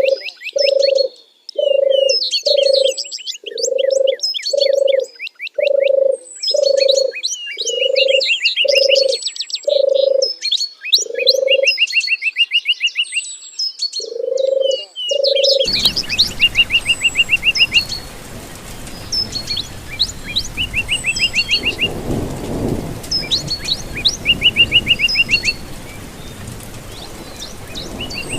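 Songbirds chirping and singing, with a low call repeated a little more than once a second under them for the first half. About halfway through the sound changes abruptly: the low call stops, a steady rush of running water comes in, and a bird repeats one short trilled phrase over and over.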